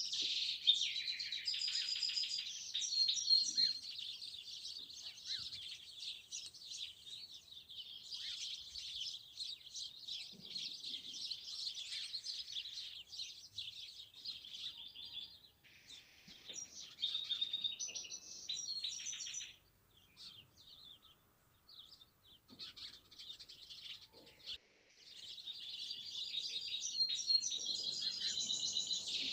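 A chorus of many small songbirds chirping and twittering at once, in dense overlapping high calls. The chorus thins out about two-thirds of the way through, drops almost to quiet for a few seconds, then resumes in full near the end.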